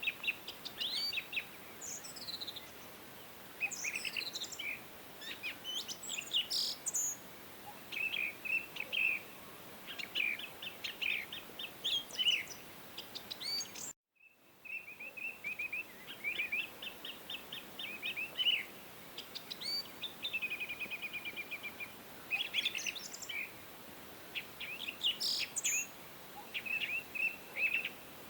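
Several songbirds chirping and singing in quick, overlapping phrases of short notes and trills, over a steady background hiss. The sound cuts out completely for a moment about halfway, then resumes.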